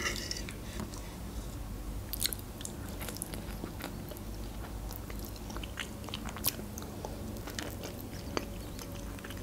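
A person eating fried egg: chewing and mouth sounds with scattered small clicks.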